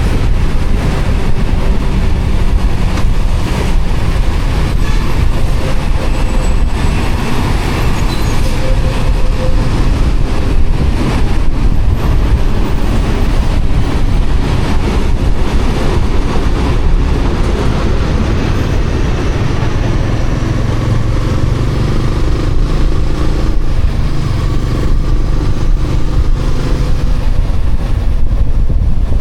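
Yamaha Sniper 155R motorcycle underway, with a steady rush of wind and road noise on the microphone over the bike's running.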